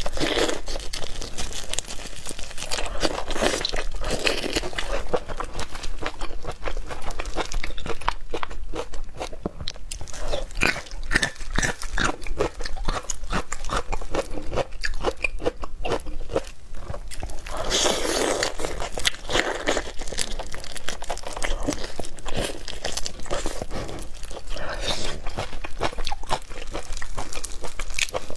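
A person eating seafood: steady crunching, biting and chewing, made of many small clicks with louder bursts every few seconds.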